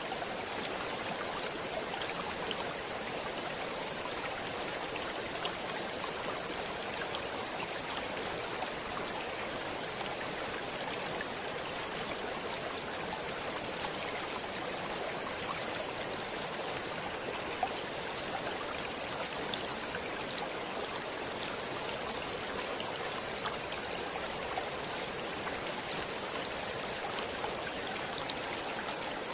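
Stream water flowing steadily: a continuous even rush with small splashes and drips scattered through it.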